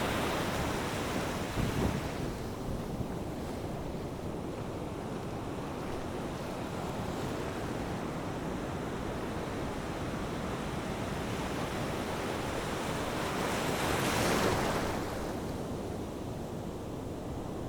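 Waves breaking and washing on a beach, with wind buffeting the microphone; one wave surges up louder near the end.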